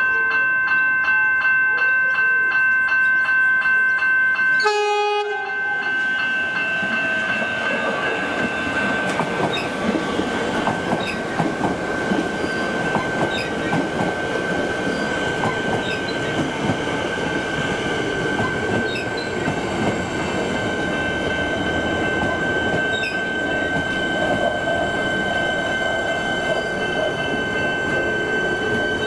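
A Melbourne Metro suburban electric train with a rapid, regular ringing for the first few seconds, then a short horn blast about five seconds in. After the horn comes a long stretch of wheel-on-rail rumble with a steady high whine.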